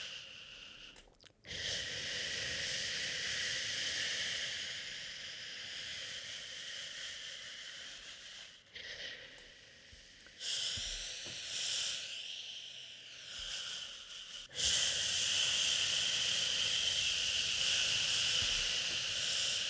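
Long drawn-out "shhh" shushing to soothe a crying baby, over white noise, broken by short pauses about a second in, near the middle and a few seconds before the end.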